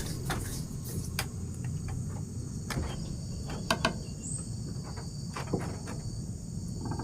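A steady high-pitched chorus of insects chirring, with a few scattered short knocks and clicks, two of them close together about halfway through.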